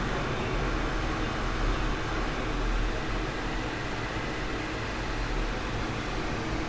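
Steady blowing air noise with a low hum underneath, from a fan or blower.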